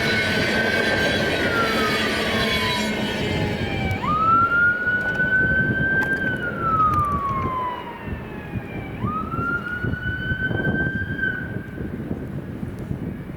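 Emergency vehicle siren in a wail pattern: a rising, held, then falling tone, repeating about every five seconds, three times. The rumble of a train fades out in the first few seconds.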